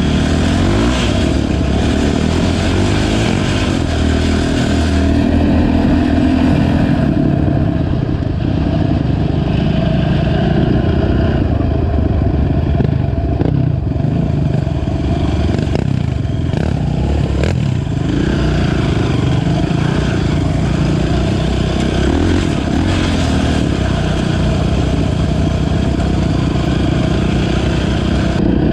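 Honda TRX450 ATV's single-cylinder four-stroke engine running under way on a trail, its pitch rising and falling as the throttle opens and closes, with a few brief knocks about halfway through.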